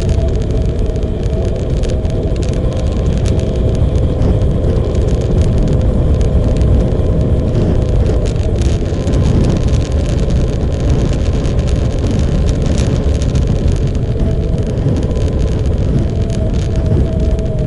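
Motorcycle riding at steady speed: the engine runs evenly under heavy wind rumble on the microphone.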